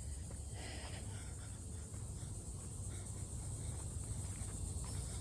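Steady, high-pitched drone of an insect chorus over a low rumble.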